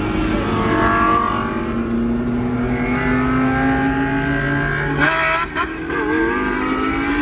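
Supercar engines accelerating, heard from inside a car's cabin. The engine note climbs steadily, then breaks sharply with a couple of cracks about five seconds in before rising again.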